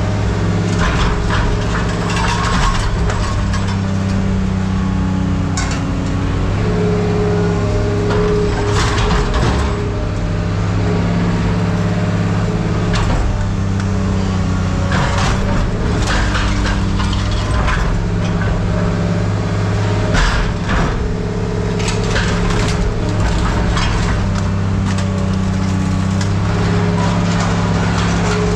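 Heavy diesel engine running steadily, its pitch shifting now and then, with scattered clanks and crashes of scrap metal being handled.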